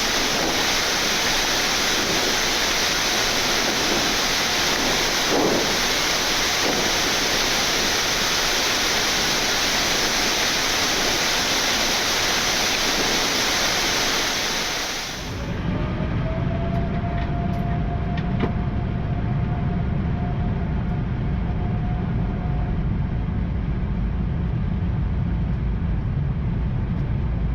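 Steady rushing airflow noise on a Boeing 787-9 flight deck during the climb, an even hiss. About halfway through it gives way abruptly to a low rumble with a faint steady tone.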